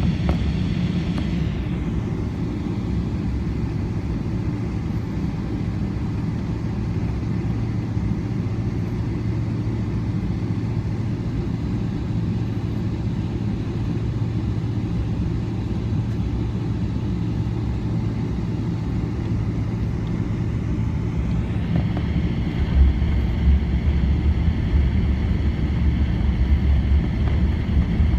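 Airliner cabin noise on the ground before takeoff: a steady low rumble of the jet engines with a higher whine that dies away about two seconds in and rises again about three-quarters of the way through. After the whine returns the low rumble grows heavier and bumpier.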